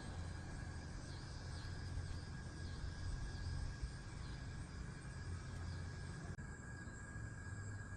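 Outdoor ambience: a steady low rumble under faint, repeated chirps and a thin steady high tone. The background changes abruptly about six seconds in.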